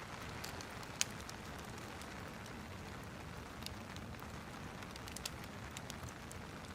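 Steady rain hiss with a wood fire crackling over it, its sharp pops scattered through, the loudest about a second in.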